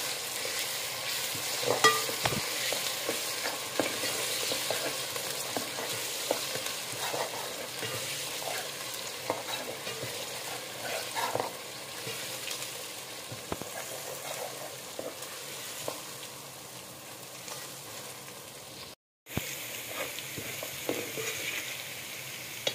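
Sliced onions and ginger paste frying in ghee in a metal pot, sizzling steadily while a metal ladle stirs and scrapes against the pot with scattered clinks, the sharpest about two seconds in. The sound cuts out to silence for a moment about three quarters of the way through.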